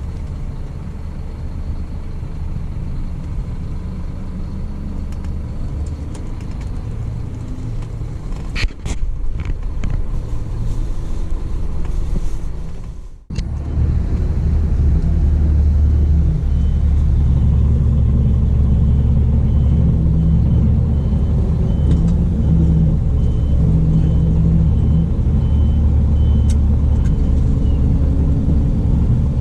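Scania coach's diesel engine running with a steady low rumble. It breaks off sharply about halfway, then comes back louder.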